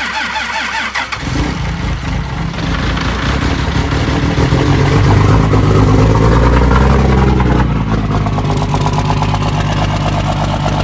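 Starter cranking a 2006 Dodge Ram's 5.9 Cummins common-rail inline-six turbodiesel on a cold start in sub-freezing weather, with no grid heater and the block heater not plugged in. It catches about a second in, runs up louder and rougher, then settles to a steady idle near the end.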